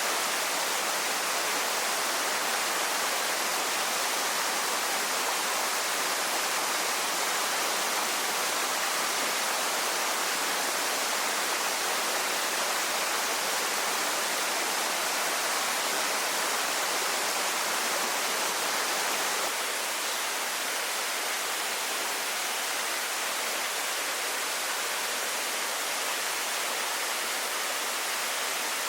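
Steady rushing of the Primitive Waterfall (Genseino-taki) on Yakushima, an even roar of falling water, dipping slightly in level about two-thirds of the way through.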